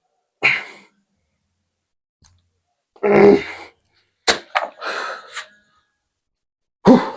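A person's forceful exhalations and short grunts from exertion during bodyweight exercise reps. Several separate bursts with silence between them, the loudest near the end.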